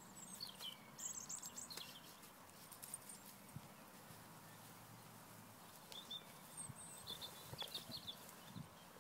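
Faint outdoor ambience with small birds chirping, in short high bursts within the first two seconds and again about six to eight seconds in.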